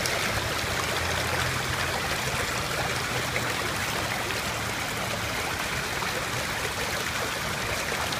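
Stormwater runoff flowing steadily across flooded ground, a continuous sound of running water.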